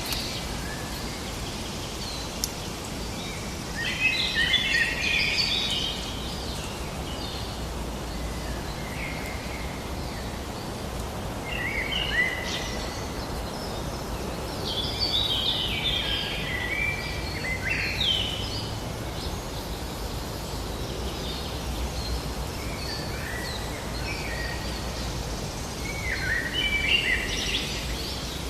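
Birds singing short chirping phrases every few seconds over a steady outdoor background noise.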